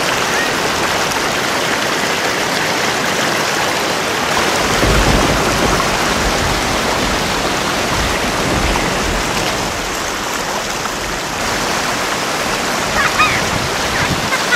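Heavy rain, a dense and steady hiss, with a low rumble swelling about five seconds in and fading a few seconds later.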